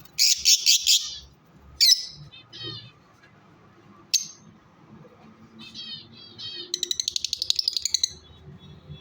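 Lovebirds calling shrilly. A loud burst of chattering comes in the first second, then sharp single shrieks about two and four seconds in with softer chirps between them, and a fast rapid-fire chatter near the end.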